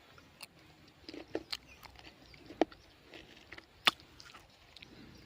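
Faint scattered clicks and taps, a few separate sharp ones among softer ticks, with no steady sound under them.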